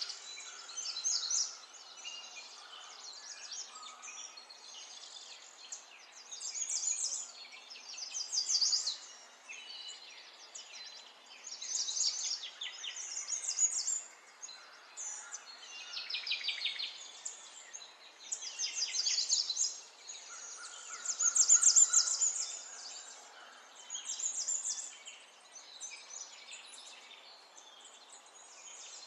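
Songbirds singing: short bursts of rapid, high trills about every two to three seconds, over a faint steady outdoor hiss.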